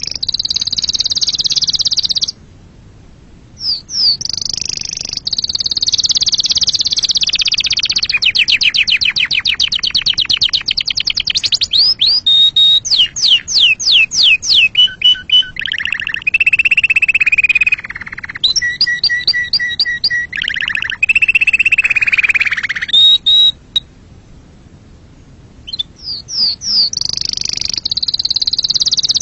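Domestic canary singing a long, varied song of rapid high trills, fast repeated chips and held whistles, with short pauses about two seconds in and again near the end.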